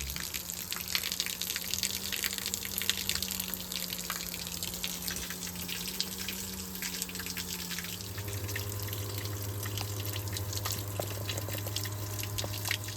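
Water trickling and spattering as it squirts in under pressure through a leaking bottom seam of a 1954 Chris-Craft Holiday's wooden hull, over a steady low hum that drops in pitch about eight seconds in.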